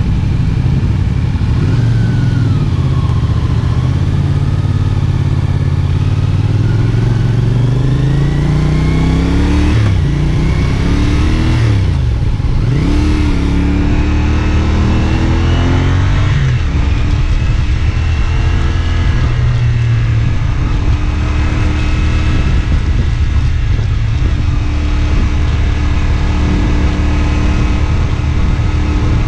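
CFMoto 450SR S's parallel-twin engine riding under load: revs climb steadily for about ten seconds, drop and climb again quickly a few times in the middle, then hold a steady pitch at constant speed for the rest.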